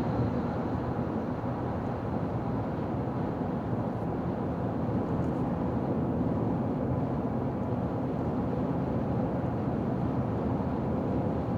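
Car driving at highway speed: steady tyre and road noise with engine hum.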